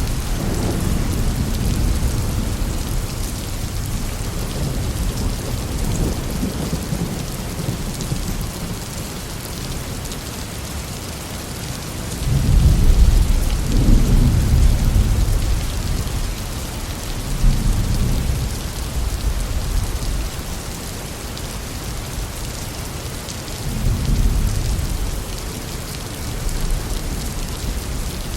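Heavy rain falling steadily with rolling thunder. A rumble dies away at the start, a long, loud roll of thunder comes about halfway through, and two shorter rumbles follow.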